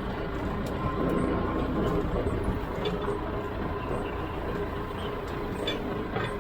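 Farm tractor engine running steadily, with a few light clicks and rattles over the rumble.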